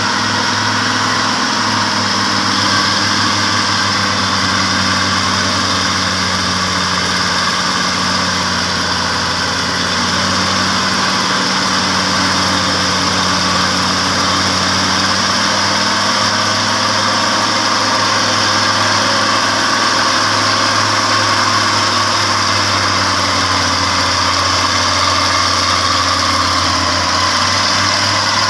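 Logging truck's engine idling steadily, with an even low hum that does not rise or fall.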